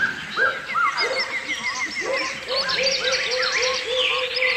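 Several birds singing and calling at once: overlapping chirps and whistled glides, with a quick run of short high notes about a second in and a lower note repeated again and again in the second half.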